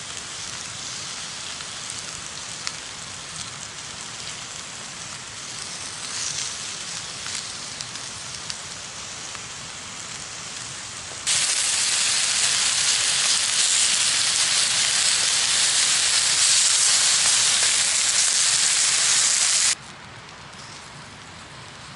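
Wood campfire crackling and hissing, with small scattered pops. About eleven seconds in, a much louder steady hiss cuts in suddenly and cuts off again about eight seconds later.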